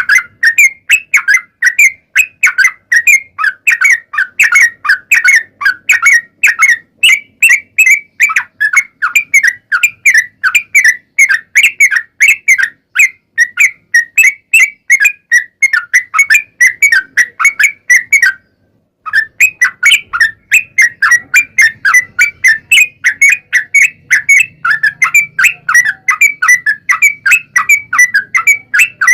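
Yellow-vented bulbul (trucuk) calling in a long, rapid run of short repeated chirping notes, about four a second, with one brief break about eighteen seconds in. This is a trucukan lure recording, played to make trucuk birds answer.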